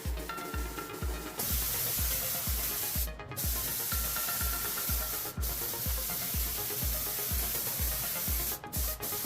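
Compressed-air spray gun hissing in long bursts, breaking off briefly about three seconds in, about five seconds in and twice near the end. Background music with a steady bass beat, about two beats a second.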